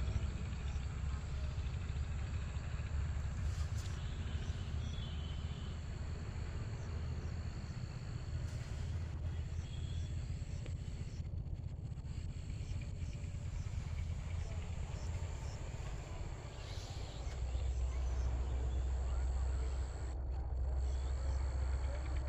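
Insects trilling steadily in a high, continuous drone with faint rhythmic chirps, over a strong low rumble that rises about three-quarters of the way through.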